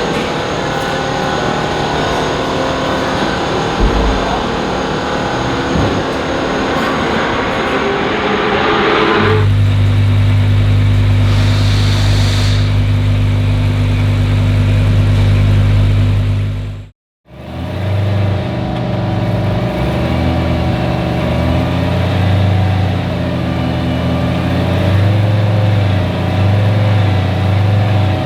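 Lamborghini Huracán Super Trofeo EVO2 race car's V10 idling with a steady deep drone during warm-up, with a few small rises in revs near the end. The first part is a busier mix of mechanical noise before the idle becomes clear.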